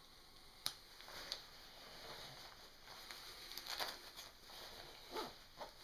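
Faint rustling of winter clothing and gear being handled while dressing, with a sharp click about a second in and a few softer ticks and scuffs.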